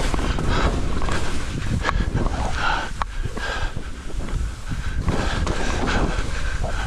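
Wind buffeting the microphone in a steady low rumble, with irregular short breathy bursts about every second.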